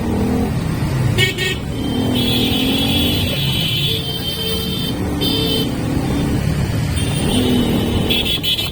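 Motorcycle running on the move in road traffic, its engine pitch rising and falling, with several vehicle horn toots: a short one about a second in, a long one near the middle, and more near the end.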